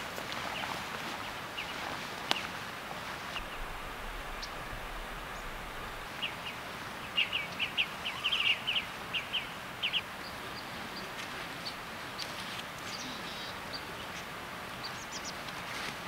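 Small bird chirping over a steady outdoor hiss. A quick run of short chirps comes about six to ten seconds in, with scattered higher chirps after it and a single click about two seconds in.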